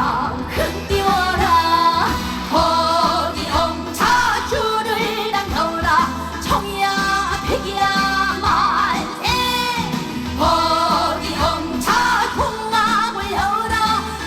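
Live amplified music: a woman singing a Korean folk-style trot song with gliding, ornamented phrases over a backing track with a steady beat.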